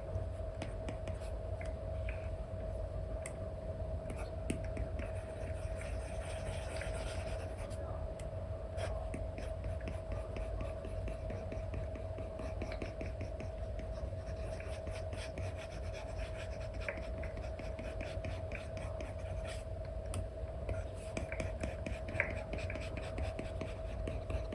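Stylus nib scratching and tapping on a paper-like screen film over a tablet during digital painting: quick scratchy strokes and light ticks, over a steady hum.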